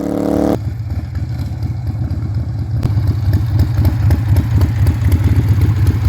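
Harley-Davidson Sportster 1200's air-cooled V-twin engine running, a loud, quick, uneven string of low firing pulses. A music track cuts off about half a second in.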